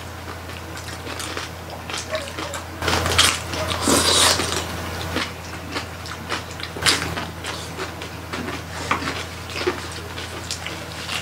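Close-miked eating of lechon (whole roast pig): chewing with many small crunches and crackles from the crisp skin, plus wet mouth sounds, over a steady low hum. A louder, noisier stretch of crunching comes from about three to five seconds in.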